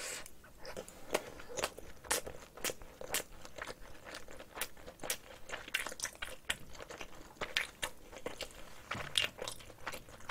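Close-mic chewing of a mouthful of rice mixed with spicy marinated cockles: a fast, irregular run of small clicks and crunches with no pauses.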